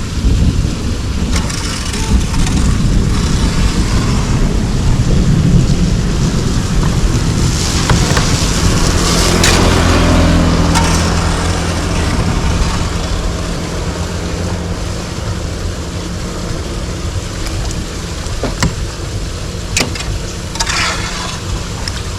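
A motor vehicle passes by, its engine swelling and then fading about halfway through, over a steady low rumble.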